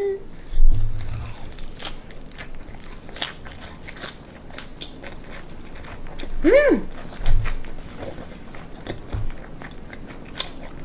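Close-miked chewing of a leaf wrap of raw mullet sashimi with ssamjang: wet crunching and clicking mouth sounds, with a few dull low thumps, the loudest just after the start. About six and a half seconds in, the eater gives a short hummed "mmm" that rises and falls.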